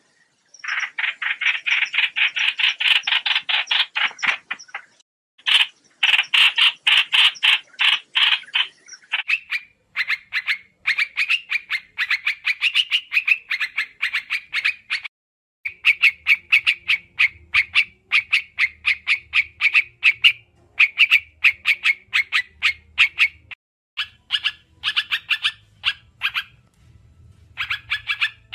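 Trao trảo bird calls played as a trapping lure: long runs of rapid chattering trills, loud and fast-pulsed, broken by brief pauses between bursts.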